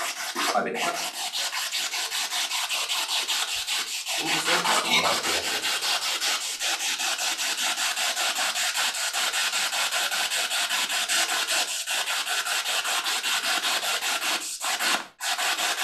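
Spirit box sweeping radio frequencies in reverse: a steady hiss of static chopped into rapid even pulses, about six a second, with brief fragments of radio sound. It cuts out for a moment near the end.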